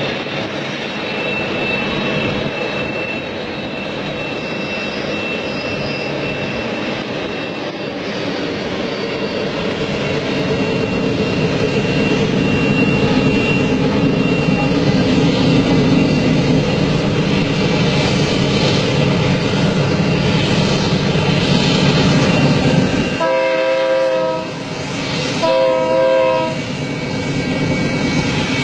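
A train running by with a steady rumble that grows louder, then two horn blasts about a second long each near the end.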